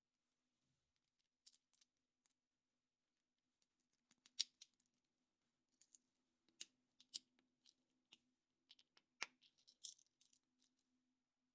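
Small plastic pieces being handled and snapped: scattered light clicks and short rustles, the sharpest about four seconds in and a run of them between six and ten seconds, over a faint steady hum.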